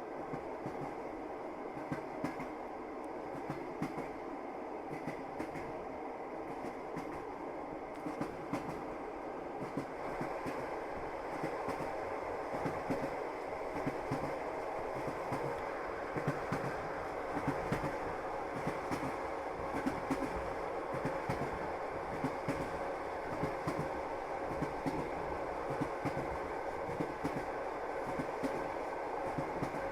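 Passenger train running, heard from inside the carriage: a steady rumble of wheels on rails with frequent clacks at the rail joints, growing a little louder about ten seconds in.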